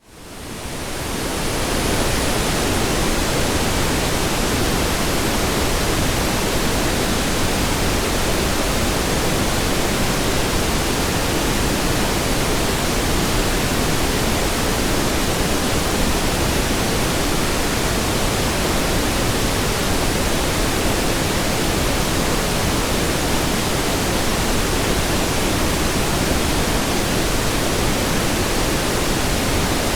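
Pink noise: a steady, even hiss-rush, fading in over the first couple of seconds and then holding level.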